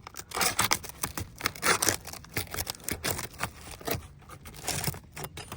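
Asphalt roof shingles being lifted and worked loose to reach the nails underneath: a run of irregular scraping, crackling and tearing noises in short bursts.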